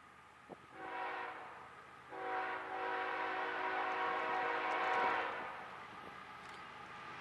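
Diesel freight locomotive's air horn sounding a short blast and then a long one of about three seconds, a chord of several steady notes.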